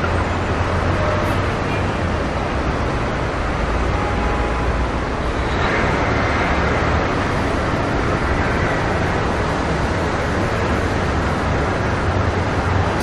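Road traffic ambience: a steady rumble and wash of passing vehicles, with one passing a little louder about six seconds in.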